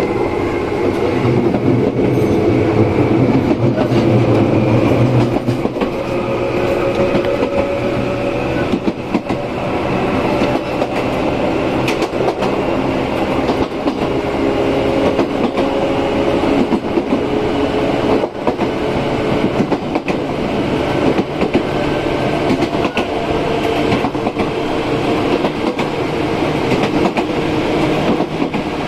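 Running sound from on board an Izu Kyuko 8000 series electric train, with the low tone of its Hitachi-built field-chopper control and traction motors. Several steady tones slowly rise and shift in pitch over a rumble of wheels on rail. Short clicks from the wheels and rail joints come through at irregular intervals.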